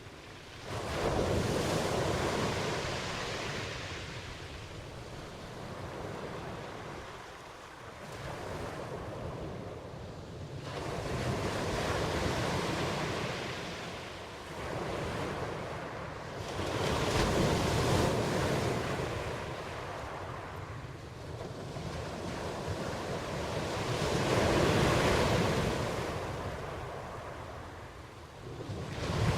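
Ocean surf: waves washing in and drawing back, the noise swelling and fading every few seconds with no steady tone.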